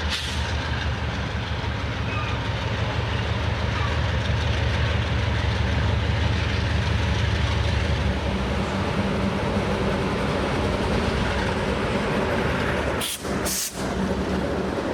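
Freight train rolling past on the track: a steady, loud rumble of wagons and wheels on rail. Two momentary dropouts in the sound come about thirteen seconds in.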